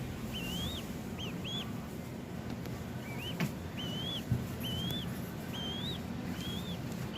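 Falcon chick calling: a series of short, high, rising chirps, about one a second. Two short taps come near the middle.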